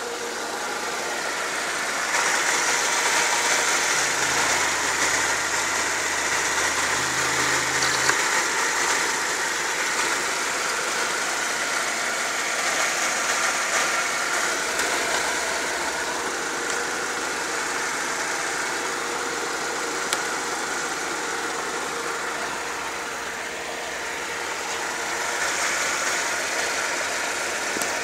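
Mercedes-Benz M111 2.0-litre four-cylinder petrol engine (111.946) idling steadily, heard close to its front accessory belt and pulleys.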